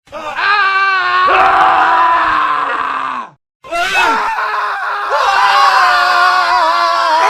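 Men screaming: one scream clip, a brief silence about halfway, then another scream clip with several overlapping voices.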